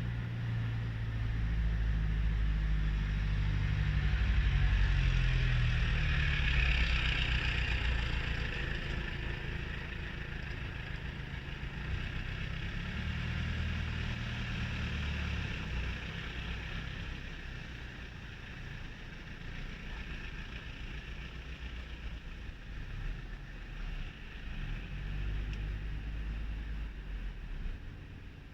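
Wind blowing in a gust that swells a few seconds in and then slowly eases, with a low rumble of wind on the microphone.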